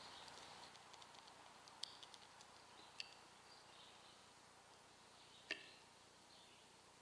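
Near silence: faint outdoor background with three sharp clicks, the loudest about five and a half seconds in, and faint high bird chirps in the distance.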